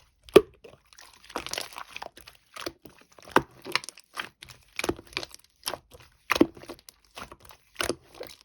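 Irregular crinkling and crunching with sharp taps and clicks, like something being handled close up. There is a longer stretch of rustling about a second in.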